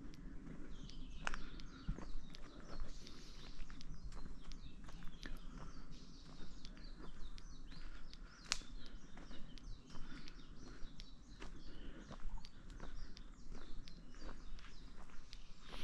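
Footsteps along a forest trail at a steady walking pace, with birds chirping and singing among the trees.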